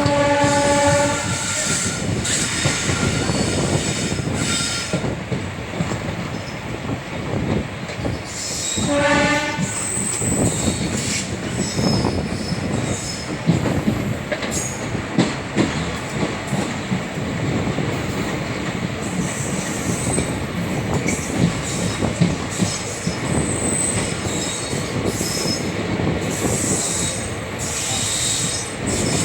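ICF passenger coaches running over the track with a continuous rumble and clatter. A WAP-4 electric locomotive's horn sounds twice: about a second at the start, and a shorter blast about nine seconds in. Brief high-pitched wheel squeals come and go through the rest.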